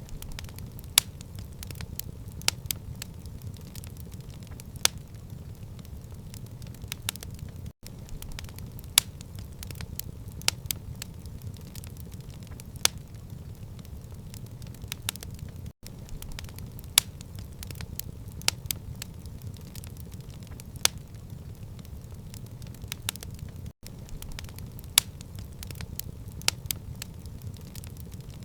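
Wood fire crackling in a stone fireplace: sharp, irregular pops and snaps over a steady low rumble of the flames, with a split-second drop-out about every eight seconds.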